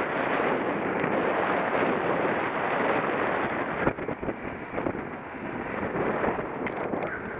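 Steady wind rush buffeting the microphone of a camera moving along a cyclocross course, easing a little about four seconds in.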